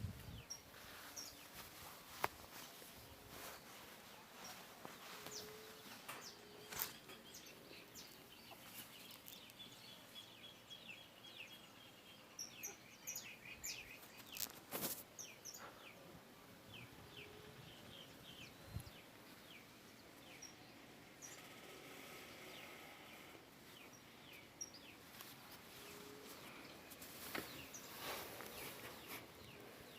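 Faint outdoor ambience with small birds chirping, scattered short high chirps and twitters, and a few sharp clicks.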